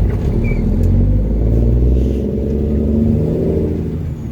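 Mack truck's diesel engine pulling away under load, its note rising as it accelerates and dropping near the end at a gear change.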